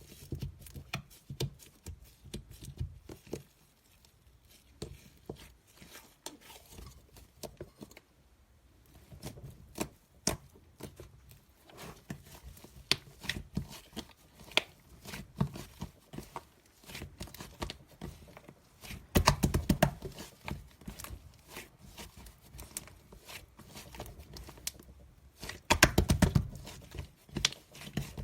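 Small irregular clicks and crackles from something being handled by hand, with two denser bursts of crackling, about two-thirds of the way in and near the end.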